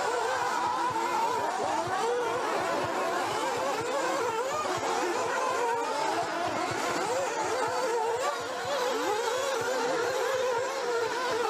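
Several nitro RC buggy engines racing together, their high-pitched whines overlapping and constantly rising and falling as they accelerate and brake around the track.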